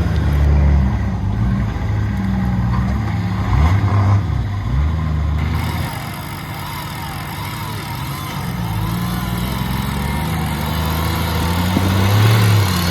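Engine of a 4.2-litre turbo-diesel Nissan GQ Patrol running, its revs rising and falling a few times in the first half, then settling lower before building again near the end.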